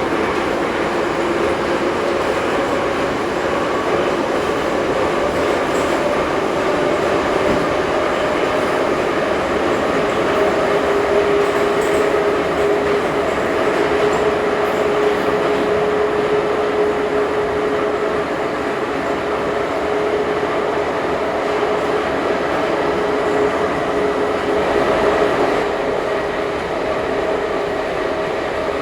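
Ezh3 metro train running at speed between stations, heard from inside the car: a loud, steady rumble of wheels on rails with a droning whine held through it.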